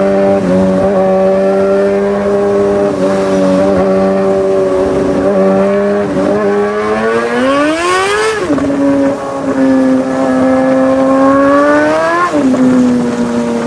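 Superbike engine running at high revs: the note holds steady, then twice climbs and drops sharply, as when accelerating through gear changes.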